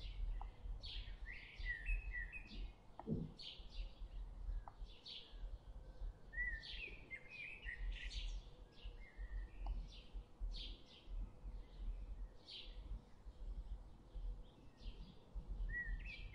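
Small birds chirping, many short high chirps in quick succession, over a faint low rumble.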